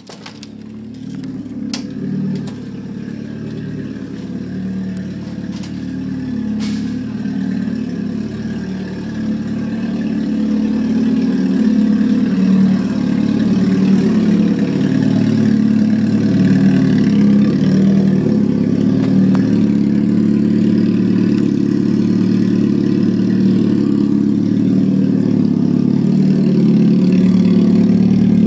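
Loud, steady idle of a Mk1 Volkswagen Scirocco's bored-and-stroked 16-valve four-cylinder, exhausting through an open header and a short turned-down dual downpipe. It grows louder over the first dozen seconds, then holds steady. A few sharp clicks sound in the first couple of seconds.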